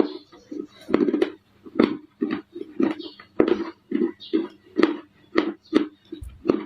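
Baked clay bars crunching and crumbling in a steady run of short, gritty crunches, about two to three a second.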